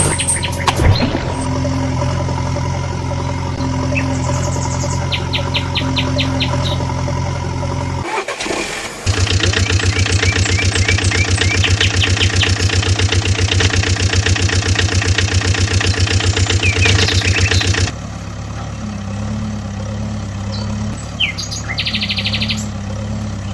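Vehicle engines running steadily, with a louder, rapidly pulsing engine from about nine seconds in until about eighteen seconds. Birds chirp briefly in the background, a little before and a little after it.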